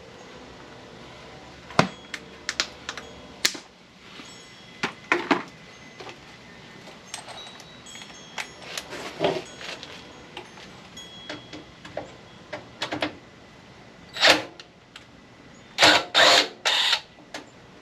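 Irregular clicks, taps and knocks of hand tools and metal parts being handled, with a few louder clattering knocks near the end.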